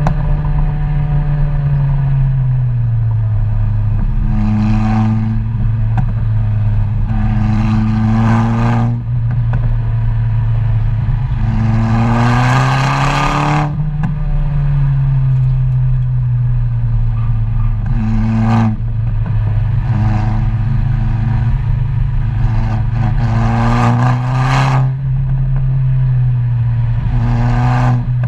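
Car engine and exhaust repeatedly accelerating and backing off, the pitch climbing in short pulls of one to two seconds and dropping again about seven times, with the hardest pull about halfway through. This is the pattern of a car driven briskly through a run of tight curves.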